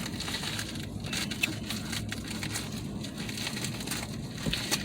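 Close-up chewing and eating of a barbecue sandwich, a run of small crackles and clicks.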